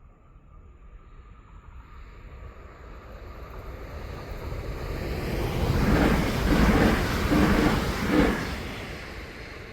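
Train approaching and passing, its rumble building steadily to the loudest point about six seconds in. It then clatters through a run of regular wheel knocks roughly every three-quarters of a second before fading.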